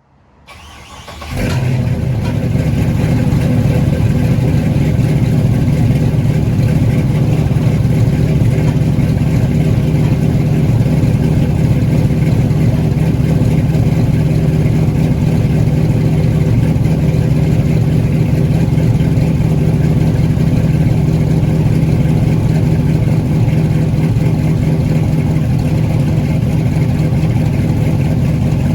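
Cammed V8 of a 1969 Pontiac Trans Am, fitted with a BTR Stage 2 cam, catching about a second in on a cold start and then idling steadily.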